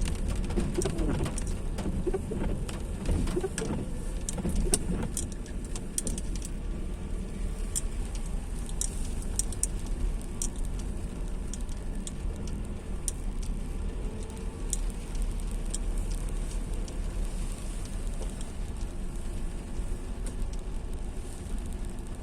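Steady low rumble of a car moving in the rain, with scattered light ticks of raindrops.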